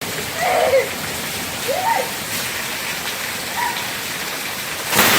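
Heavy rain falling, a steady hiss. Near the end a sudden, much louder crash of noise sets in.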